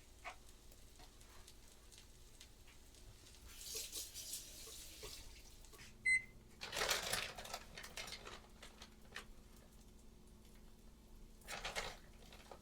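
A kitchen appliance gives one short, high electronic beep about six seconds in. Around it come light clicks and three brief rustling or hissing swells of kitchen handling, the loudest just after the beep.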